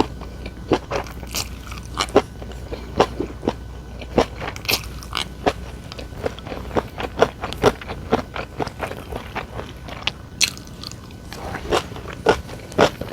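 Close-miked eating: a person biting and chewing with many short, irregular crunches, several a second, and a brief lull near the end.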